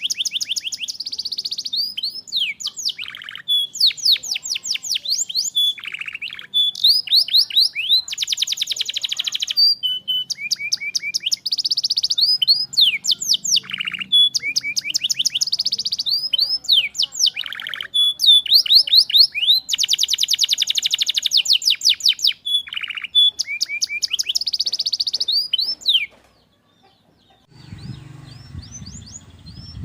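Canary singing a long song of fast trills and repeated rapid whistled sweeps, which breaks off suddenly near the end. After a short gap, a low rumbling background with faint chirps follows.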